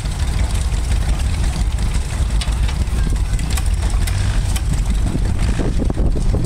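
Rumely OilPull tractor's slow-running engine, a steady low rumble, just started by hand-turning its flywheel.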